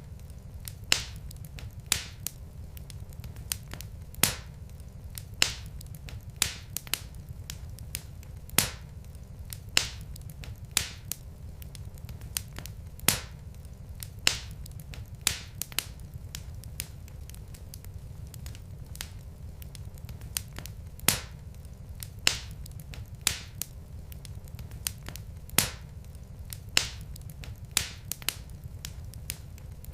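Wood fire crackling: logs burning with sharp pops about once a second over a low, steady rumble.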